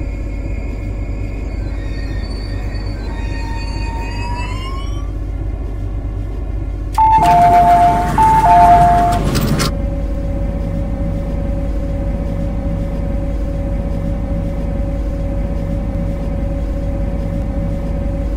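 Steady rumble inside the cab of an MTR Kwun Tong line C-Train, with a rising whine from about three seconds in. About seven seconds in, a loud two-tone sound alternating between two pitches sounds for about two and a half seconds, then stops abruptly, leaving a steady hum over the rumble.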